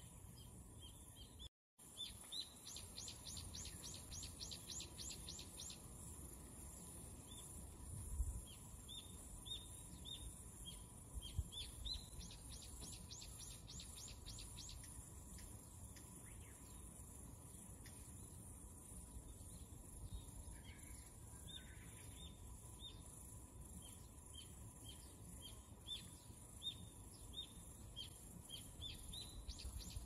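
Faint, rapid series of high, falling chirps from a small bird, several a second, coming in runs of a few seconds with pauses between them.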